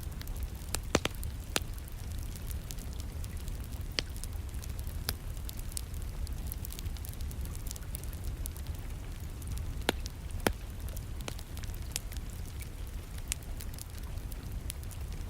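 Wood fire crackling in a fireplace, with scattered sharp pops, over a steady low rumble and the even hiss of rain.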